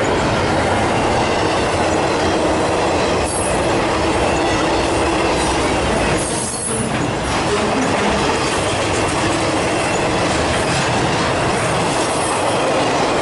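A train rolling past at close range: a loud, steady rumble of wheels on the rails, with a brief lull about halfway through.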